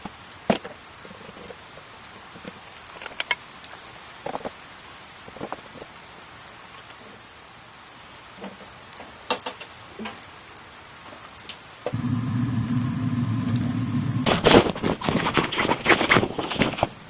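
Rain pattering with scattered drops. About twelve seconds in, a steady low mechanical hum starts abruptly, and soon after, loud rapid crackling and rustling clicks take over.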